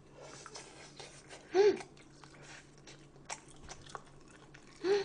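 Close-miked chewing and small wet mouth clicks as a person eats, with a short hummed 'mm' about one and a half seconds in and another near the end.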